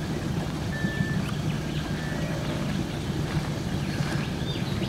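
Nissan Patrol 4WD engine idling steadily, an even low hum, as it stands ready to tow out a bogged vehicle.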